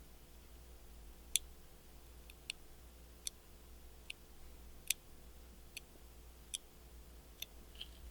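Hand-poke tattoo needle (an 11-round-liner) puncturing skin, a faint, sharp click with each poke, about one a second and fairly evenly spaced, over a low steady hum.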